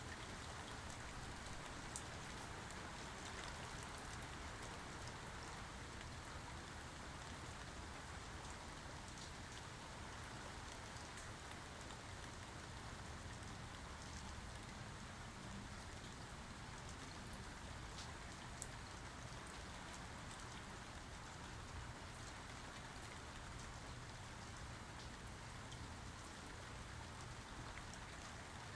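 Steady rain falling and pattering on surfaces, with scattered individual drops ticking throughout.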